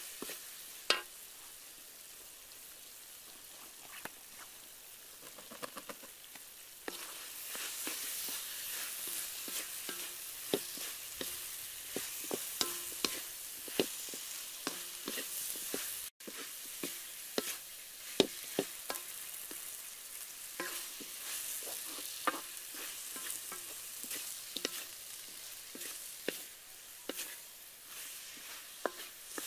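Potatoes and grated coconut frying in sugar syrup in a metal wok, with a steady sizzle, while a wooden spatula stirs and scrapes the pan with frequent sharp knocks. The sizzle grows louder about a quarter of the way in.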